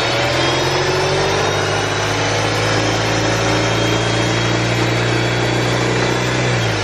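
BMW 320i (E90) four-cylinder engine running with a whine like an electric motor from the accessory belt area, which a shop suspects is a failing alternator pulley. The engine's pitch drops near the end.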